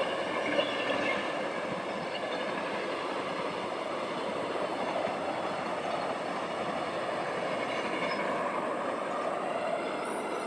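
Passenger train running past, a steady rumble of wheels on rail with a faint high whine over it and two light clacks about half a second apart near the start.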